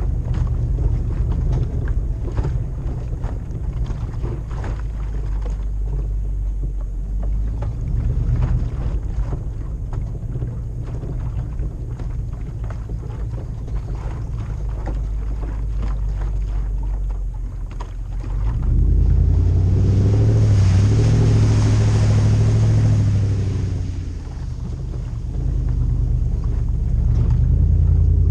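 A Toyota LandCruiser 100 Series' 4.7-litre 2UZ-FE V8 running through a full exhaust: a low, steady rumble with scattered clicks. About two-thirds in it gets much louder as the engine is pushed harder, eases off briefly, then builds again near the end.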